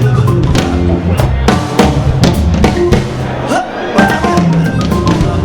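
Live band music: a drum kit playing a groove with snare and rimshot hits under held chords and sliding notes from a Hammond organ.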